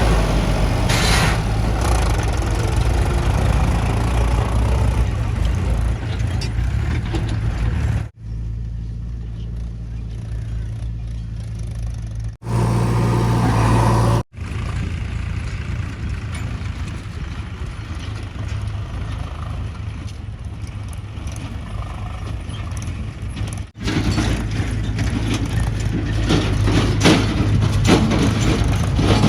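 Heavy diesel machinery engines running steadily with a deep low drone. The sound changes abruptly several times where separate clips are cut together.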